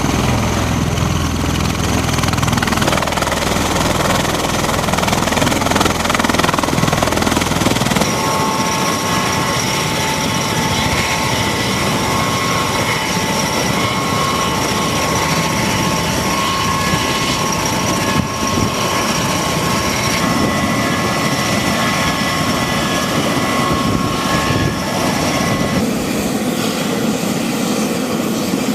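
MV-22B Osprey tiltrotor aircraft running: a steady, loud rotor and engine rumble, which changes about eight seconds in to a sound with less low end and a steady multi-tone turbine whine that fades near the end.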